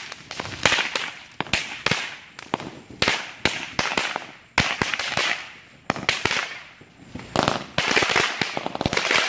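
Consumer fireworks going off: an irregular run of sharp bangs and pops, one or two a second, each trailing off in a fading hiss.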